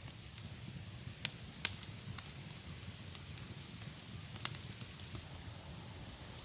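A few sharp snaps or pops, irregularly spaced and loudest twice within the first two seconds, over a low steady rumble.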